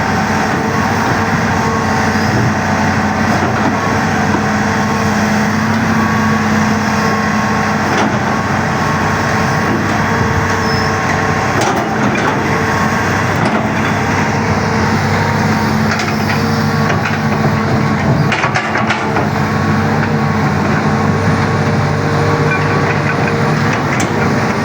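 Excavator engine running steadily at a constant pitch, with a few brief knocks or clanks along the way.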